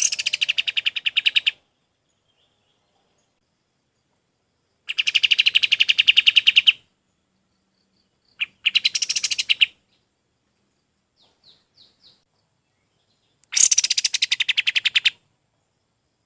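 Kapas tembak songbird calling in loud, rapid chattering trills, four bursts of one to two seconds each with pauses between them, and a few soft short notes before the last burst.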